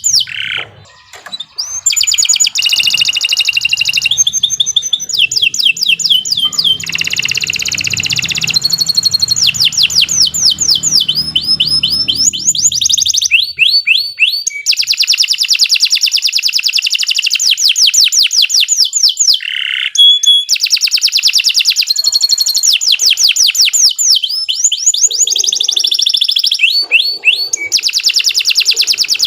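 Domestic canary singing a long, loud song of fast trills: rapid runs of repeated high notes, each run giving way to another, with a brief break about a second in.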